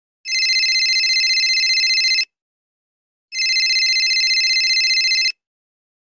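Telephone ringing: two rings of about two seconds each, with a pause of about a second between them. Each ring is a steady, high trill.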